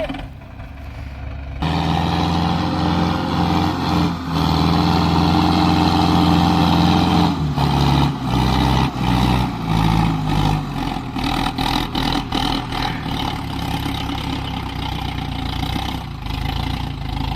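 Sonalika DI 750 tractor's diesel engine revving up under load about a second and a half in and holding high revs for several seconds as the tractor strains in soft soil. It then drops back in steps to lower revs, running unevenly with a string of short knocks through the second half.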